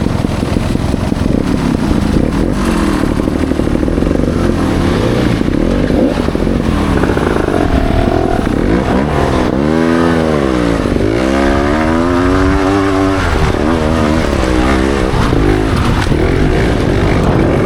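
Trials motorcycle engine running and being revved, its pitch rising and falling several times in quick sweeps in the middle, over a steady rush of noise.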